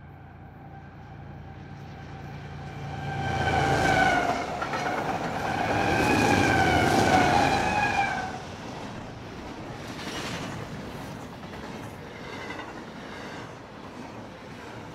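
Union Pacific diesel freight locomotives approaching and passing, sounding a chorded air horn in two blasts, the second longer and dipping slightly in pitch as they go by. After that the double-stack container cars roll past with a steady rumble and clatter of wheels on rail.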